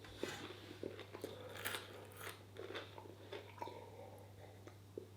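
A person chewing a mouthful of food close to the microphone, with faint irregular crunches and mouth clicks, over a steady low hum.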